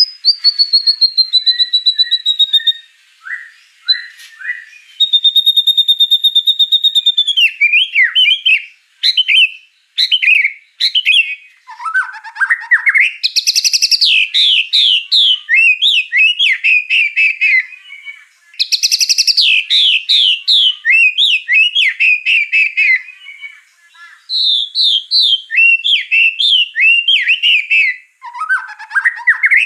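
White-rumped shama (murai batu) singing a full, varied song: long clear whistles first, then fast runs of rapid, changing notes broken by two harsh rasping bursts and brief pauses.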